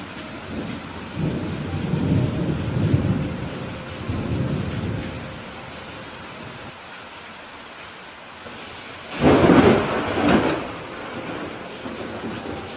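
Steady rain falling through a thunderstorm. A low rolling rumble of thunder swells and fades over the first few seconds, then a louder, sharper thunderclap comes about nine seconds in, rumbling on for a second or two.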